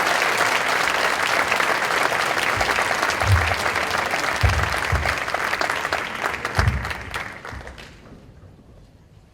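Audience applauding, fading out near the end, with a few low thumps in the middle.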